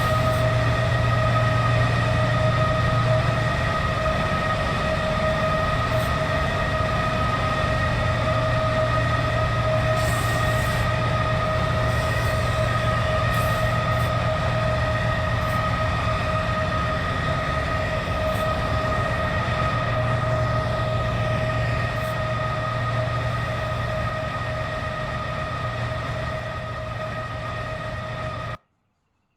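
BNSF train rolling past, a steady low rumble with a steady ringing whine on top and a few faint clicks. It cuts off suddenly near the end.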